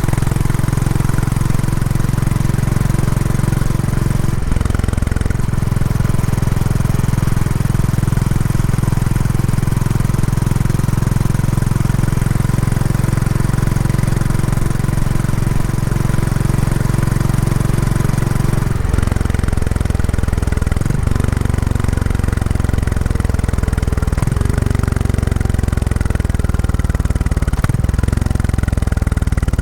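Royal Enfield Classic 350's single-cylinder engine running through its stock exhaust while being ridden during break-in. The exhaust note is steady, breaking briefly about four seconds in and several more times in the last third.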